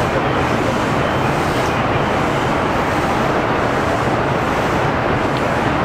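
Keihin-Tohoku Line E233-series electric train running at speed: a steady, loud noise of wheels on rails and the train's motors, heard from inside the car.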